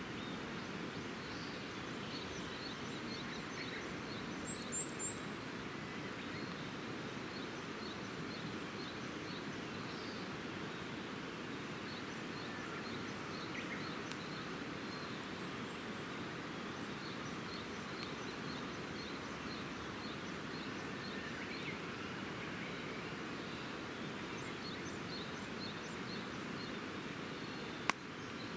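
Small birds chirping repeatedly over a steady outdoor hiss, with a quick run of three high chirps about four to five seconds in. A single sharp pop comes near the end.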